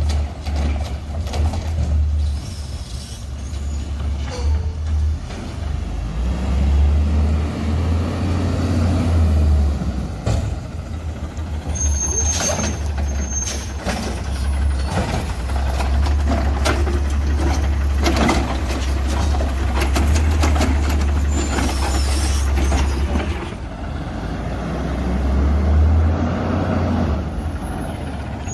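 CNG automated side-loader garbage truck running, with a steady low engine rumble that eases off and comes back several times. Air brakes hiss and sharp knocks and clanks come from the truck working, the loudest cluster about halfway through.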